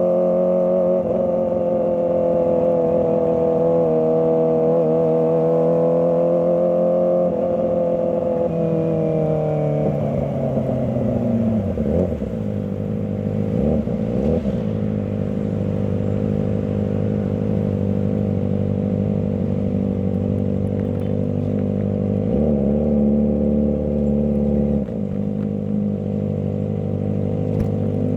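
Kawasaki ZX-25R's 249 cc inline-four engine running at steady high revs, then dropping in pitch as the throttle is rolled off, and running on at lower revs with two short throttle blips.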